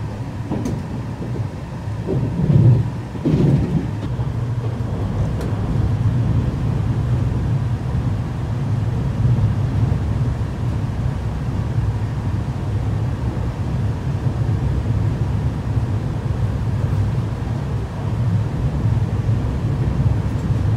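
Steady low running rumble of a limited-express train heard from inside the passenger car while under way. Two brief louder low thumps come about two and a half to three and a half seconds in.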